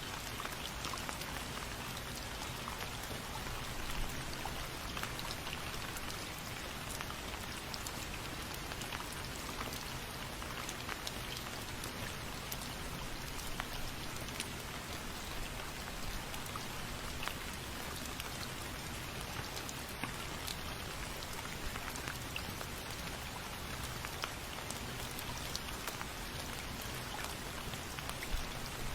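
Steady rain falling: a constant hiss with many small, sharp drop ticks scattered through it.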